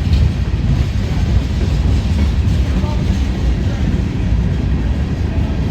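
A train running past close by: a loud, steady low rumble.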